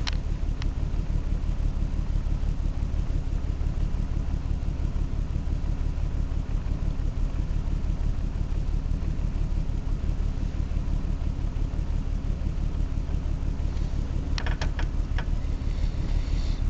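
A steady low rumble, with a few sharp clicks near the start and a cluster of clicks about fourteen to fifteen seconds in.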